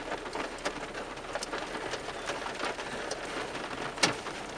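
Rain falling steadily, with many sharp ticks of drops striking close by and one louder tap about four seconds in.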